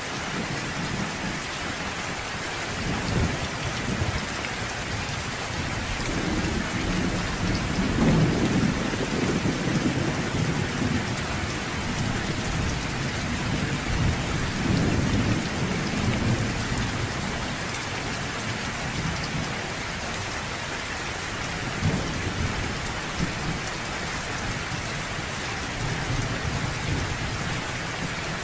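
Steady rain falling through a thunderstorm, with low rolling thunder swelling several times, the loudest rumble about eight seconds in and another around fifteen seconds.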